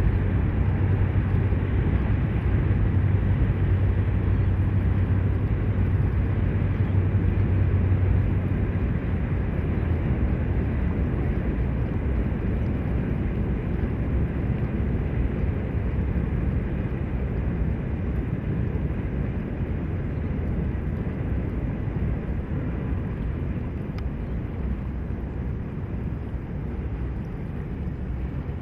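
Diesel freight locomotive passing. A steady low engine drone for about the first nine seconds gives way to a continuous rumble of the train rolling by, which slowly fades.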